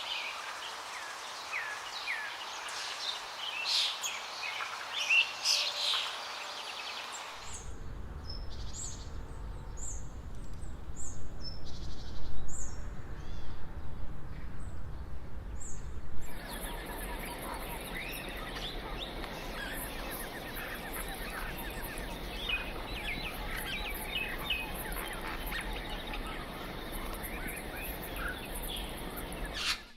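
Tropical forest ambience with birds chirping, edited in three stretches. The first has bird chirps over a hiss. About a quarter of the way in it cuts to a low rumble with a few high chirps. Just past the halfway point it cuts again, to a dense chorus of calls over a steady high buzz.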